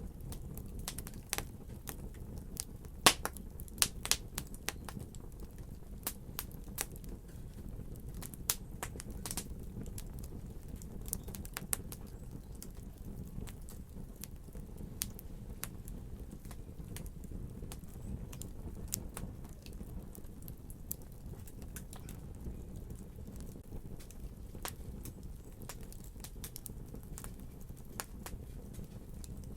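Wood fire crackling: irregular sharp pops and snaps over a steady low rumble of burning, the pops most frequent in the first dozen seconds.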